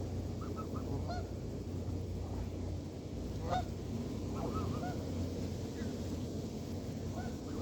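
Canada geese honking in short, scattered calls, the loudest about three and a half seconds in, over a steady low rumble.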